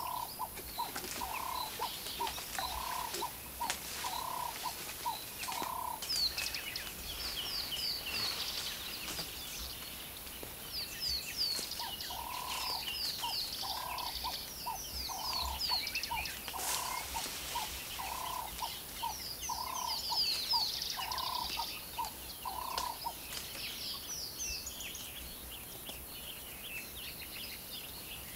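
Birds calling: one bird repeats a short note about once a second in two runs, the second after a pause of several seconds, while others chirp and twitter rapidly in a high, busy chorus.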